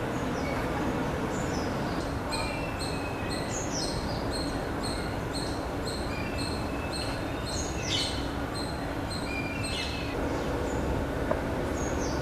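Birds calling over a steady low background rumble. One bird repeats a short high note about twice a second, with other chirps and falling calls among it.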